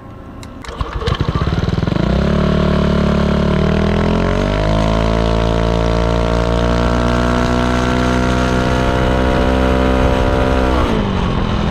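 Yamaha Aerox 155's single-cylinder engine revved through a ROB1 aftermarket exhaust. It runs low at first, rises about two seconds in and holds a steady high pitch, steps up again partway through, then drops back to a low idle near the end.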